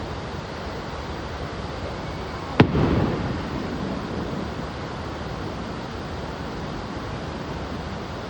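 A single firework shell bursting with a sharp bang about two and a half seconds in, followed by a rumbling, crackling tail that fades over a second or so, over a steady rushing background noise.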